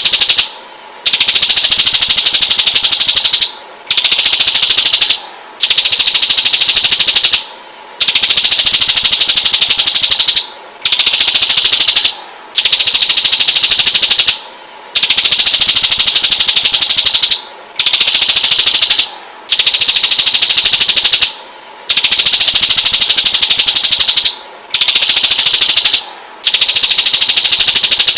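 Songbird masteran recording for training white-rumped shamas: a fast, dense, high trill in phrases of one to two and a half seconds, repeating with short, regular pauses between them.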